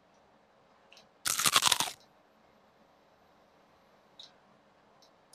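Close-up crunchy chewing of a lettuce wrap: a quick run of crisp crunches lasting under a second, about a second in, with a couple of faint mouth clicks around it.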